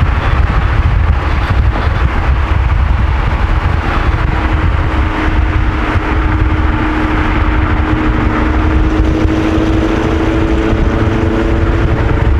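Car engine and road noise heard from inside a moving car: a deep, steady rumble with an engine drone that slowly climbs in pitch from about halfway through as the revs rise.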